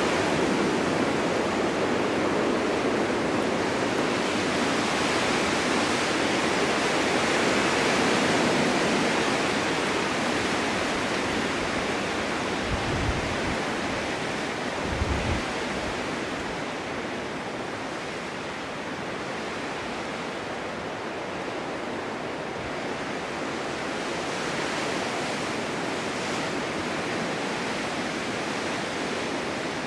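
Snowstorm wind blowing steadily, a rushing hiss that is stronger at first and eases somewhat after the middle. Two brief low thuds about halfway through.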